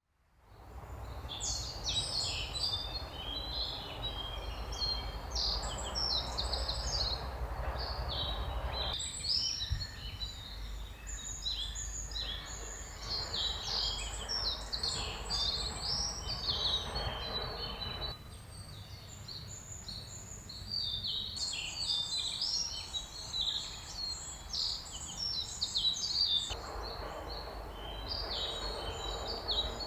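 Forest songbirds chirping and singing continuously, many short calls overlapping, over a steady low background rumble and hiss that changes abruptly several times.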